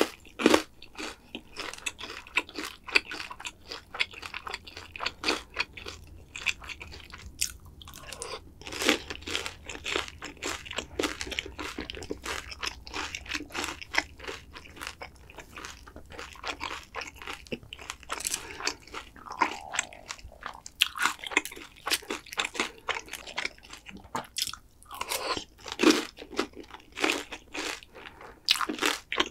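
Close-miked crunching and chewing of crispy battered fried pork (tangsuyuk): many sharp crunchy bites with chewing in between.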